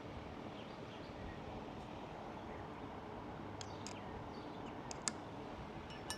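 A few light clicks of small parts being handled, the sharpest about five seconds in, over a steady low background hum.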